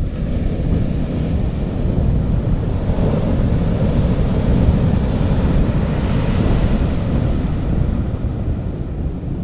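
Sea waves washing onto a beach: a hissing wash swells about three seconds in and fades away near the end, over a steady low rumble of surf.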